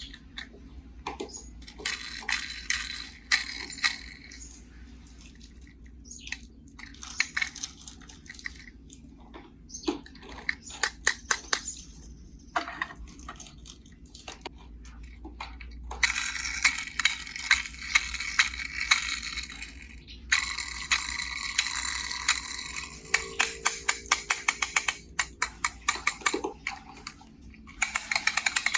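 Small die-cast toy cars and a plastic carry case being handled: bursts of rattling and scraping broken by many sharp clicks and taps.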